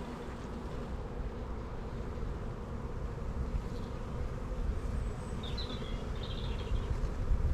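Honeybees buzzing in a steady hum around an opened, busy hive during a frame inspection.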